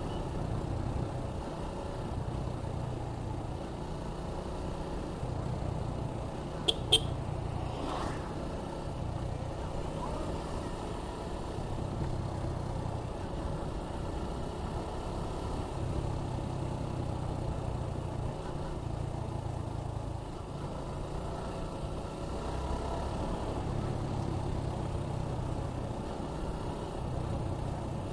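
Suzuki Gixxer 155's single-cylinder engine running as the motorcycle rides along, its note rising and easing every few seconds with the throttle, over road and wind noise. About seven seconds in there are two brief, sharp, high sounds close together, the loudest moment.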